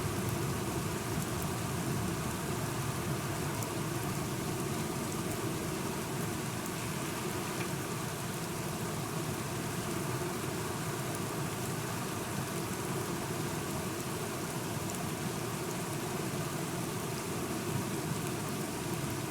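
Steady rain falling, an even unbroken hiss with no thunder or other events.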